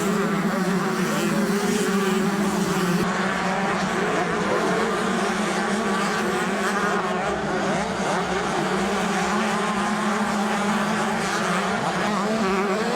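Several motocross bikes racing together, their engines revving up and down and overlapping into a continuous loud drone.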